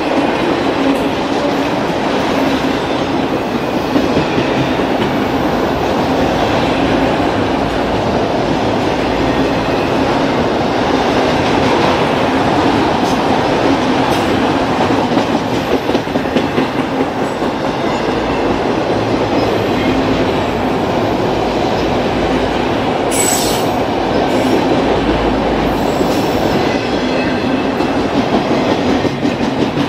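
Freight train of autorack cars rolling past: steady wheel-on-rail noise, with a brief high-pitched sound about two-thirds of the way through.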